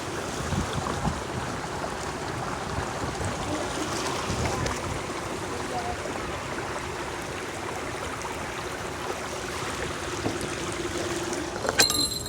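Floodwater running with a steady rush, with a couple of sharp knocks near the end.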